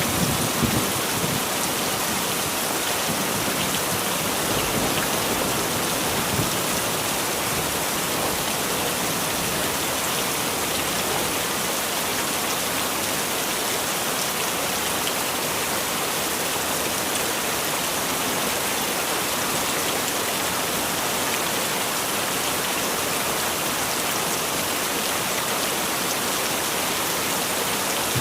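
Heavy rain falling steadily, an even unbroken hiss of drops on surfaces. A low thunder rumble dies away in about the first second.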